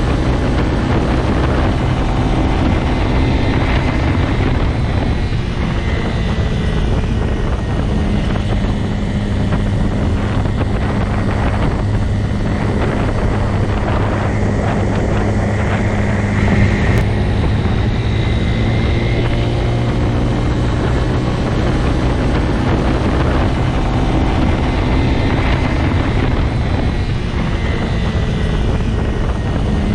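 Motorcycle engine running at a steady speed, a constant low drone that barely changes.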